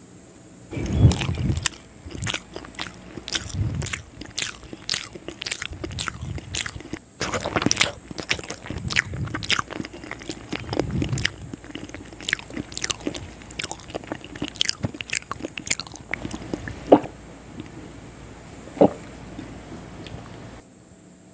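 Close-miked eating of a boiled egg: biting and chewing with a quick run of wet mouth clicks and smacks, thinning to a couple of single clicks near the end.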